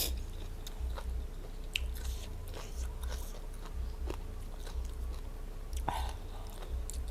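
Close-miked chewing and biting of food, with irregular small crunches and wet mouth clicks.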